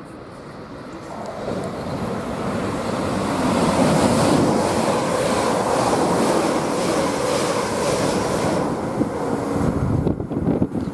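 Class 350 Desiro electric multiple unit running through the station at speed: a rushing roar of wheels on rail and air builds up as it approaches, loudest about four seconds in, holds steady as the carriages pass, then breaks into gusty wind buffeting on the microphone near the end.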